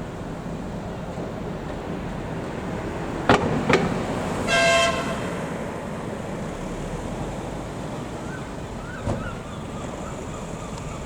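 A tram's horn gives one short toot, about half a second long, a little over four seconds in. Two sharp knocks come just before it and another near the end, over a steady street background.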